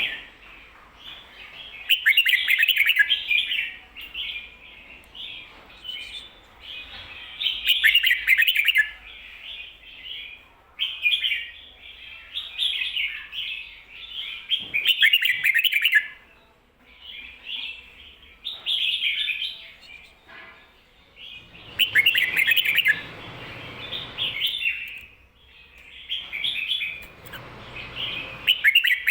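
Red-whiskered bulbul singing its doubled 'kho-ta-ra' song: short, bright warbling phrases repeated every second or two.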